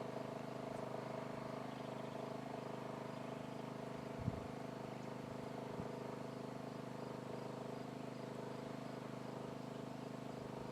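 Yamaha portable generator running with a steady, even hum. Two faint thumps come midway.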